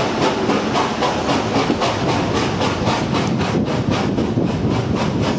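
Train running at speed: a steady rumble with a rapid, even beat of about four to five strokes a second.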